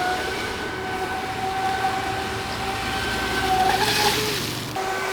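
Traxxas Spartan RC speed boat's brushless motor whining steadily as the boat runs on the water, its pitch wavering briefly about four seconds in.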